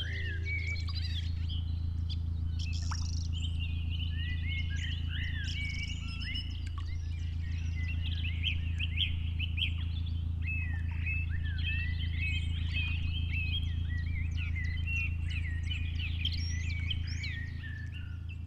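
Songbirds singing, with many short overlapping chirps and calls, over a steady low hum. The sound starts to fade near the end.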